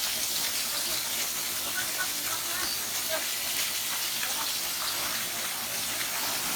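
Steady rushing hiss of falling water from a waterfall.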